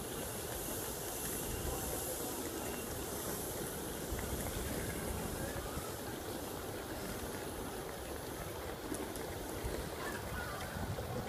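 Class 158 diesel multiple unit pulling away into the distance: a steady low rumble and hiss with no distinct events.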